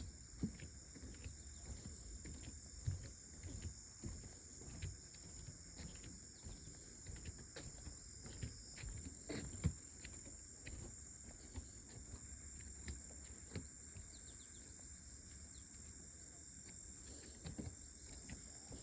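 Summer insects calling in a steady, high-pitched chorus that goes on without a break. Underneath, irregular soft thumps and rustles.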